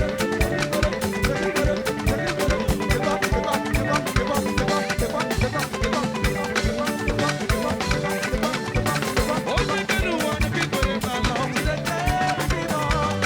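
Live band music with a busy, steady drum-kit and percussion beat under sustained instrument tones.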